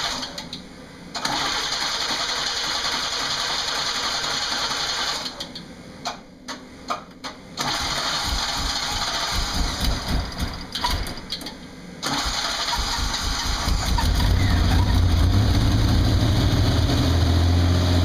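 1992 Chevy Camaro's 3.1 V6 being cranked over by its starter in several long attempts: a hard cold start after sitting for a couple of weeks, with ragged sputtering pops between attempts. About 13 seconds in the engine catches and settles into a steady, louder run.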